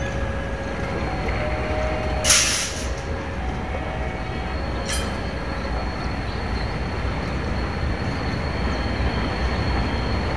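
Diesel-locomotive-hauled local passenger train approaching the station head-on, a steady rumble. A short, sharp hiss about two seconds in is the loudest moment, and a thin, steady high whine sets in about four seconds in.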